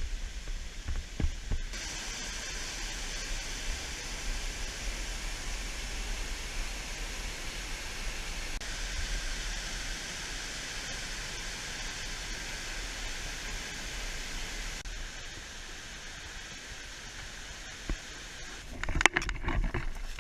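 Steady rushing of a waterfall. Near the end, a few sharp knocks and clatter, louder than the water.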